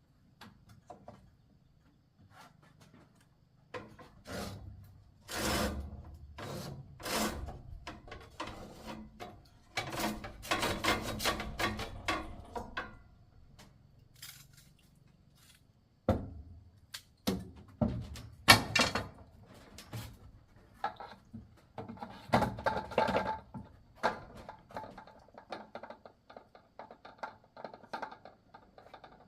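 Irregular knocks, thuds and clatters, as of wood or bamboo being handled, in two busy stretches separated by a quiet gap near the middle.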